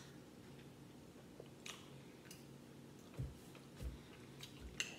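Faint chewing of a street taco: a scatter of soft wet mouth clicks and a few low thumps, spread irregularly across a few seconds.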